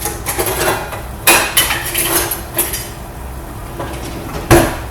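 Metal spoon clattering and knocking against a cooking pot, in several sharp strikes with the loudest near the end, over a steady low hum.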